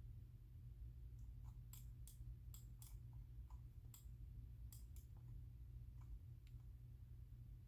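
Faint, irregular clicking of a computer keyboard and mouse at a desk: about a dozen separate clicks, sparse rather than a run of fast typing, over a steady low hum.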